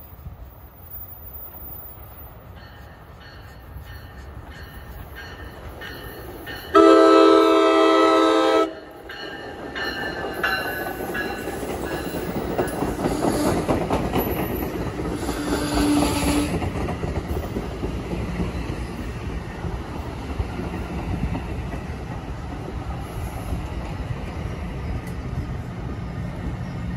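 Commuter train sounding its horn in one chord blast of about two seconds, some seven seconds in, then rolling up with a building rumble and wheels clattering on the rails.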